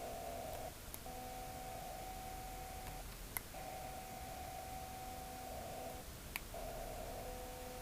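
Removu S1 gimbal's brushless motors giving off a faint steady whine in stretches of a few seconds, broken by short pauses. A sharp click falls in two of the pauses.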